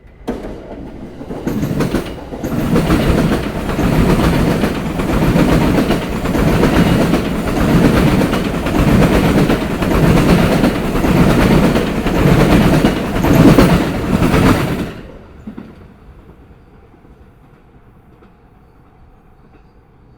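Sobu Line commuter train passing over rail joints at speed: a loud, rhythmic clickety-clack of the wheels striking the joints. It builds in the first couple of seconds and drops off about fifteen seconds in as the train clears.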